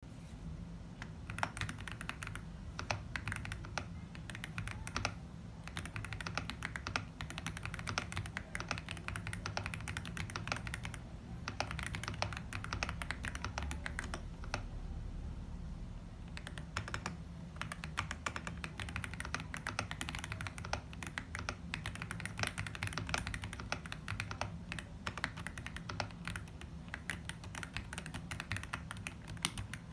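Continuous typing on a Monka 3067 V2 Pro mechanical keyboard, a rapid run of key clacks with brief pauses now and then. A steady low hum runs underneath.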